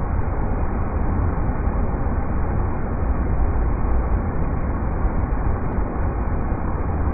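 River rapids rushing in a steady, unbroken stream of noise, deepest and strongest in its low rumble.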